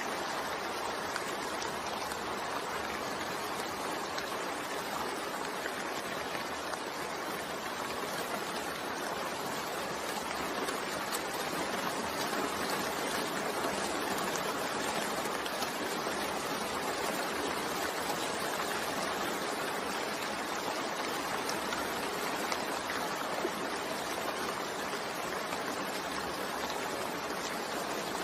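Steady rain falling, a continuous, even hiss with no breaks.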